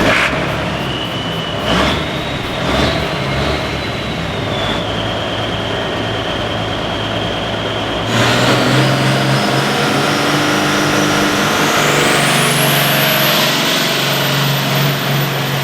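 Engine of a pulling vehicle running loud, with high steady whistles over it. About halfway through it gets louder and a high whine climbs steadily in pitch, then holds.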